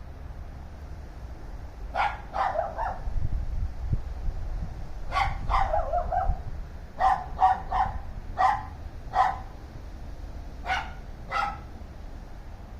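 Dogs barking repeatedly: short barks in quick runs of two or three, with pauses between, over a steady low rumble.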